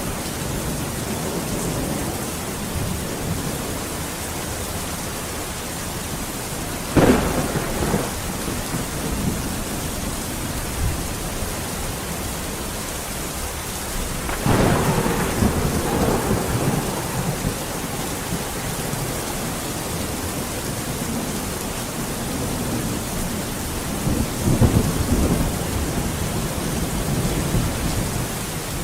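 Steady rain falling, with thunder three times: a sharp crack about seven seconds in, a longer rolling peal about halfway through, and a lower rumble near the end.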